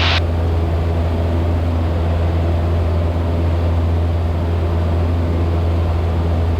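Steady drone of a Cessna 172's engine and propeller in cruise, heard inside the cockpit. It is a loud, even, low hum with no change in pitch, and a higher hiss cuts off sharply just after the start.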